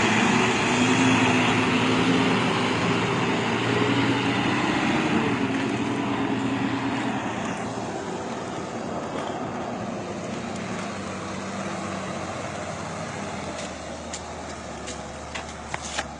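Heavy truck engine running, its pitch wavering slightly, loud at first and then fading gradually through the second half.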